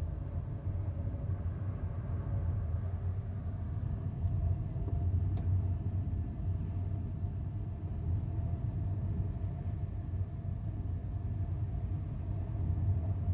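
Steady low rumble of a ferry's engines and hull vibration aboard ship, with a faint steady hum above it and a couple of faint ticks.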